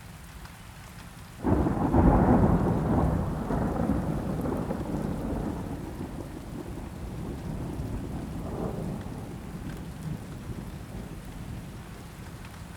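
A thunderclap breaks in suddenly about a second and a half in, then rolls and rumbles away slowly over several seconds, with a smaller rumble later, over steady rain.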